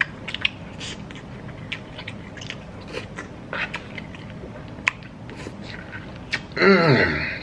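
A person chewing a mouthful of chicken and lamb over rice, with soft wet mouth clicks scattered throughout. Near the end comes a drawn-out vocal sound that falls in pitch.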